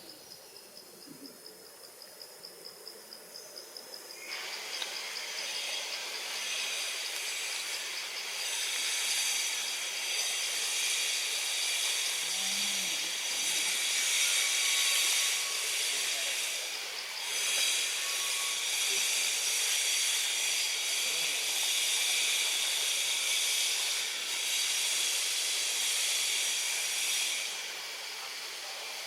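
Insect chorus, cicada-like: a steady high-pitched buzzing hiss. For the first few seconds it is quieter and pulses about three to four times a second, then it swells louder about four seconds in and holds.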